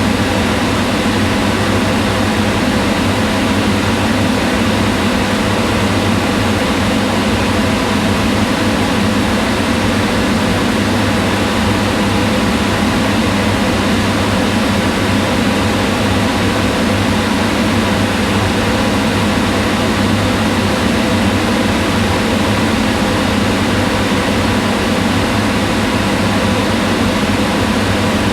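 Kitchen range hood exhaust fan running steadily: an even rush of moving air over a low motor hum, unchanging throughout.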